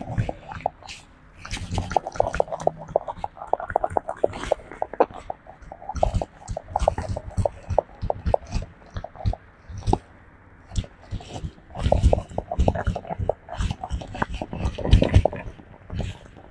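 A pet monkey grooming a person, close to the microphone: rapid, irregular clicks and rustles as it picks over them, with a brief lull about ten seconds in.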